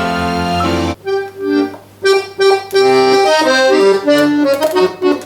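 Accordion playing the instrumental introduction to a folk song. It opens with a held chord over a bass, then plays a melody of short, separate notes.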